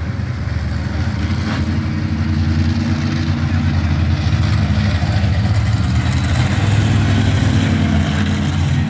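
Monster truck engines running steadily at low revs, growing slightly louder.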